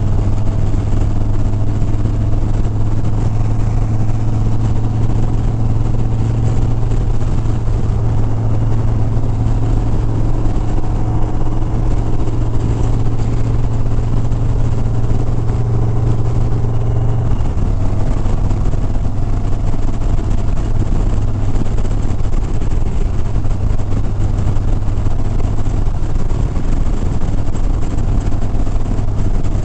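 Harley-Davidson Sport Glide's V-twin engine running steadily at highway cruising speed, a strong low hum with rushing wind noise over it. The engine note shifts slightly a little past halfway.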